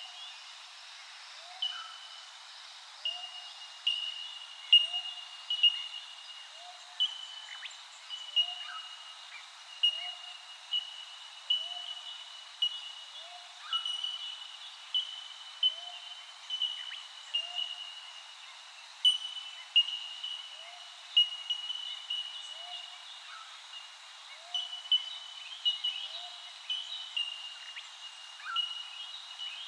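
Birds calling in a natural soundscape: a busy run of short, high, repeated notes, with a lower short call repeating at an even pace underneath and occasional quick chirps.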